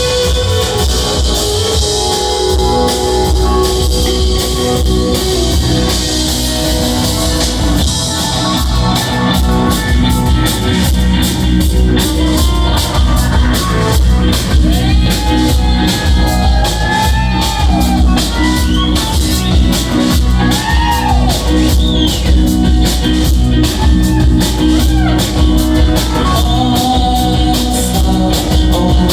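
Live rock band playing an instrumental jam: guitars over bass and drum kit. From about halfway through, a lead line comes in whose notes bend up and down.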